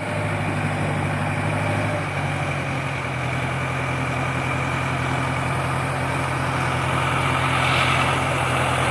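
Sonalika 750 tractor's diesel engine running steadily at a constant low speed.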